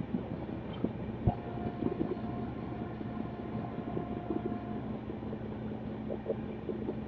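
Passenger train running on the tracks, a steady rumble with scattered rattles and clicks. There is a sharp knock about a second in, and a faint steady whistle-like tone for a few seconds.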